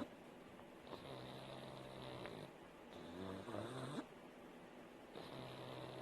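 Sleeping pug snoring, a low snore on each breath about every two to three seconds. About halfway through, one breath is louder and rises in pitch.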